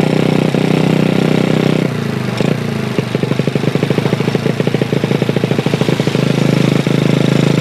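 Honda Chaly minibike fitted with a Honda Wave 100 engine, running while being ridden. About two seconds in the throttle eases off and the engine drops to a lower, pulsing beat, then it picks up to a steady note again near the end.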